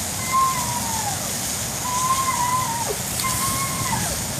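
Meat sizzling and crackling over an asado fire, a steady dense hiss. Three whistle-like tones rise above it, each held briefly and then sliding down in pitch.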